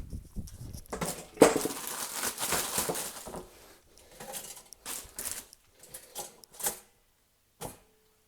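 Rustling and clattering of objects being handled: a dense stretch of rustling with a sharp knock about one and a half seconds in, then a string of short clicks and rustles.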